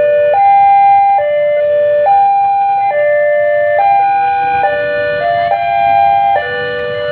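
Electronic chime tune played over a railway station's loudspeakers: held notes stepping up and down about once a second in a simple repeating melody.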